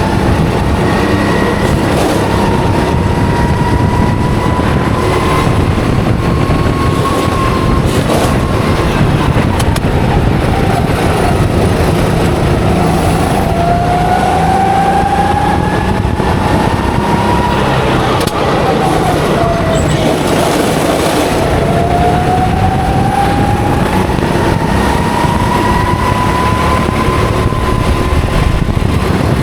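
Racing kart engine heard on board at speed, its pitch climbing as it accelerates. The pitch falls back briefly about two-thirds of the way through as the kart slows, then climbs steadily again, over a loud rough rush of engine and road noise.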